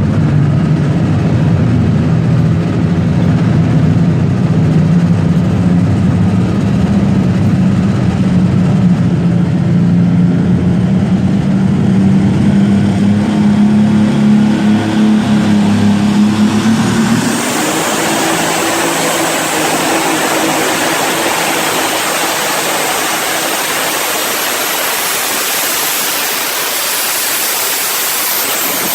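A truck or tractor pulling engine running loud, its low, pitched drone edging slightly upward. About 17 seconds in it gives way to a loud, harsh, hissing rush as the engine is revved hard.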